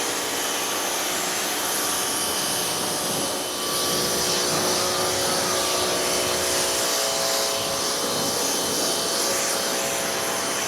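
Pressure washer spraying water onto a truck's bodywork, a steady hiss of spray over the even whine of the washer's motor.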